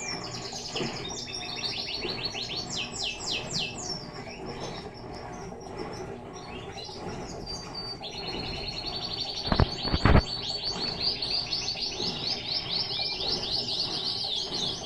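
Birds chirping in fast, repeated descending trills throughout, over the steady running of an Electrolux LTE12 washing machine agitating, which the owner finds is turning only one way. There are two sharp knocks about ten seconds in.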